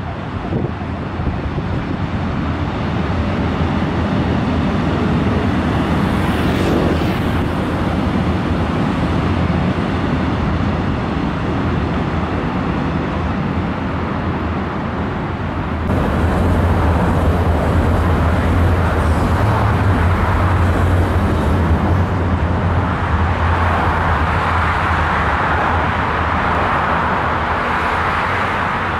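Electric passenger trains running on track: a steady rolling rumble from a train crossing a railway bridge. About halfway through it changes abruptly to a closer, louder rumble that grows toward the end as trains approach on an elevated line.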